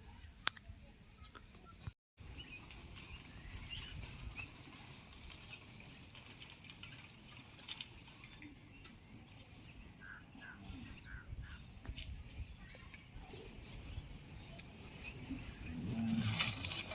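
Crickets chirping: a continuous high-pitched trill of rapid, evenly repeating pulses, with a brief break about two seconds in.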